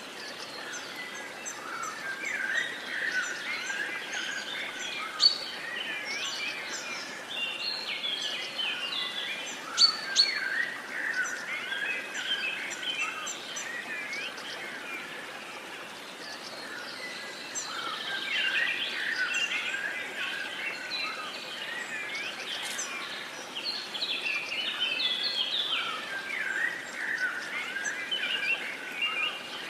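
Several songbirds singing and chirping at once in a continuous chorus, over a faint steady outdoor hiss. A few sharp, louder chirps stand out about five and ten seconds in.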